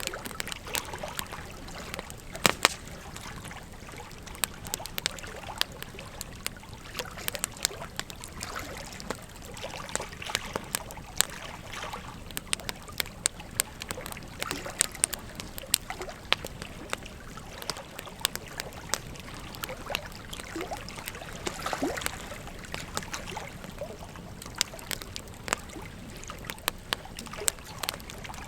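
Wood fire crackling, with frequent irregular sharp pops and snaps, over the steady rush of a flowing river.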